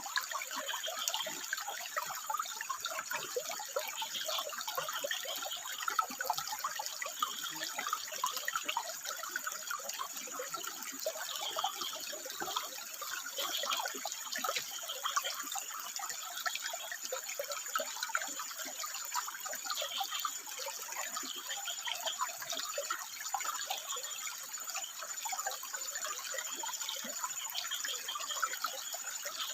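Water running and trickling over rocks in a steady, busy babble of small splashes.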